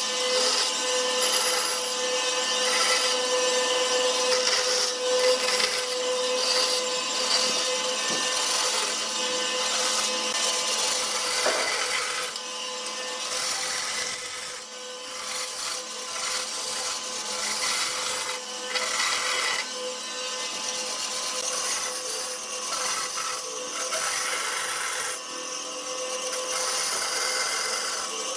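Power tool working wood: a steady noisy whir with a faint steady hum, easing off briefly now and then.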